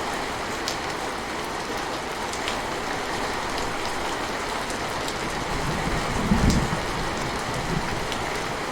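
Steady rain falling, an even hiss with scattered drop ticks. A soft low rumble of distant thunder swells briefly about six and a half seconds in.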